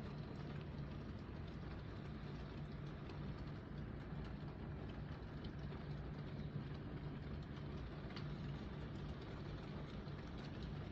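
Steady ambience of light rain falling, with a constant low hum underneath and a few faint drop ticks.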